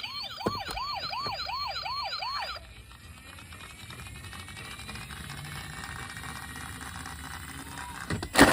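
Toy police car's electronic siren wailing in quick repeated swoops, about two and a half a second, then cutting off suddenly a little over two seconds in. A short, loud burst of noise comes near the end.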